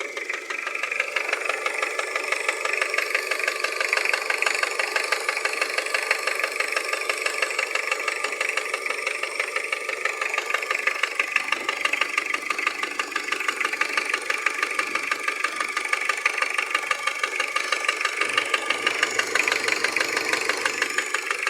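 Toyota 2C four-cylinder diesel idling with a steady, rapid, even knock. Diagnosis has ruled out the injectors, valves and vacuum pump, and the mechanics put the knock down to a piston.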